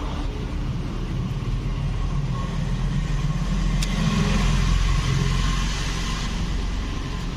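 An engine running steadily, growing louder around the middle, with a single sharp click about four seconds in.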